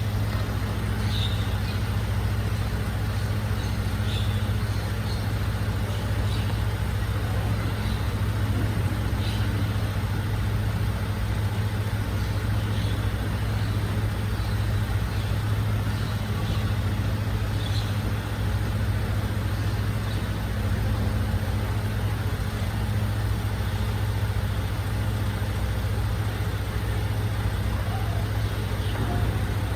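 Recycling truck's engine idling steadily, a constant low hum that does not change.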